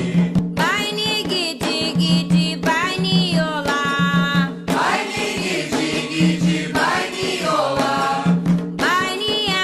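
Candomblé devotional song (ponto) for Xangô: a voice sings phrases with sliding, bending notes over rapid hand-drum strokes, with a low sustained note that comes and goes.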